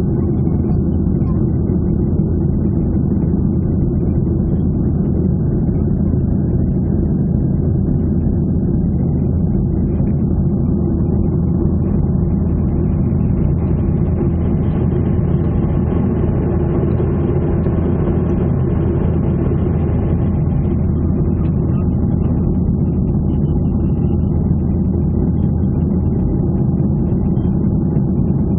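Jet airliner engines and airflow heard from inside the cabin: a loud, steady, low drone, with a little more hiss for several seconds in the middle.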